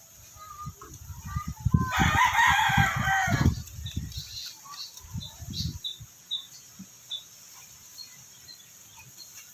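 A loud, drawn-out animal call about two seconds in, lasting about a second and a half, with low knocks and thumps under it. A few faint, short high chirps follow.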